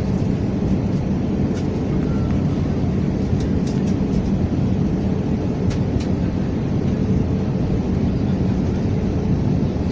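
Steady cabin drone inside an Airbus A321 airliner: a constant low rumble of engines and airflow with a faint hum, and a few light ticks.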